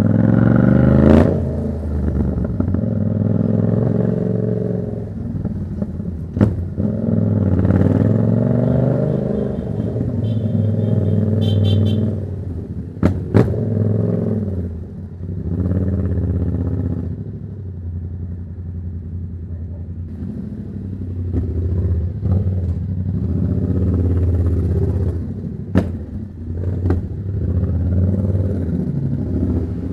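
Yamaha MT-07's parallel-twin engine through a Black Widow exhaust with no dB killer, revving up through the gears and falling back again and again while riding, with a few sharp cracks.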